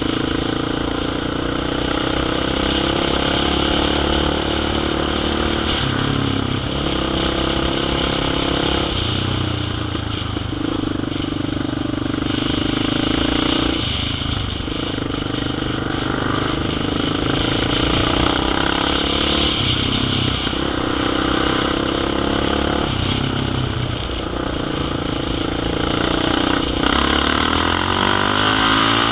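Dirt bike engine running under the rider, its pitch rising and dropping every few seconds as the throttle opens and closes, with a rising rev near the end.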